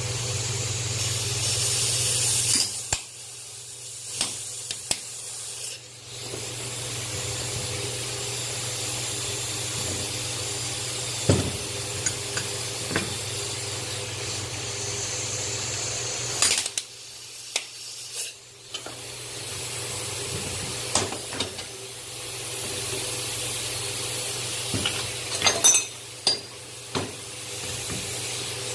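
Steady hissing spray or air jet used while cleaning brake caliper parts, with a low steady hum under it. It stops and starts a few times, with sharp metallic clicks and clinks of parts being handled.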